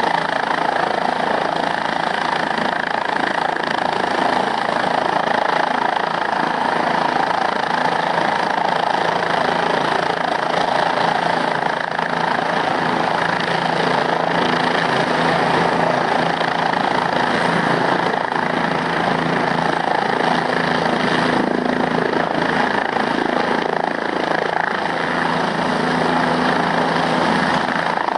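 Helicopter running steadily at close range: a continuous, even rotor and engine noise that holds steady throughout.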